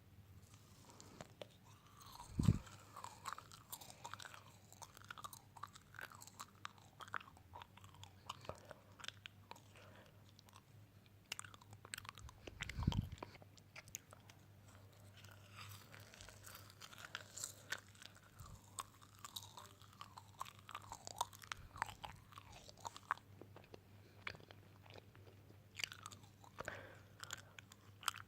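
Close-miked ASMR chewing and crunching: a continuous run of small crisp crackles, with two dull thumps, one a couple of seconds in and one about halfway.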